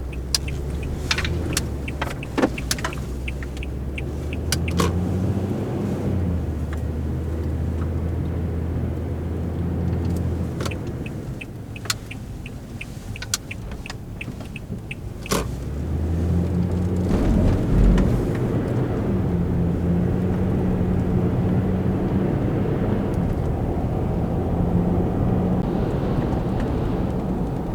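Truck engine running, heard from inside the cab, with a steady low hum that gets louder and higher about halfway through as it picks up speed. Sharp clicks and knocks sound in the first half.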